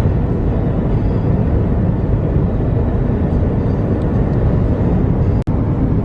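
Steady low rumble of a moving vehicle, road and engine noise, which briefly cuts out near the end.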